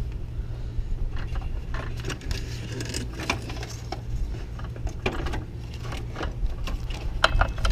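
Scattered clicks and knocks as the radiator cooling fan assembly is handled, angled forward and dropped into its bottom clip in the engine bay. A steady low hum runs underneath.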